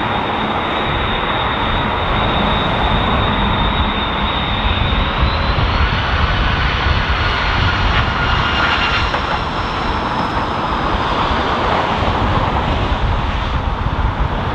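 Jet airliner engines running, a steady rush with a high whine that steps up slightly in pitch about five seconds in.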